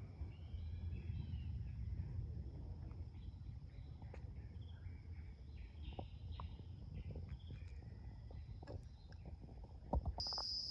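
Forest ambience: scattered short bird calls and chirps over a steady high insect drone and a low rumble. Near the end there are a few knocks, and the insect drone suddenly becomes much louder.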